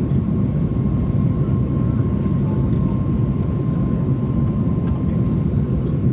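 Steady cabin noise of a jet airliner climbing after takeoff: a constant low rumble and roar of the engines and rushing air, with a thin steady whine.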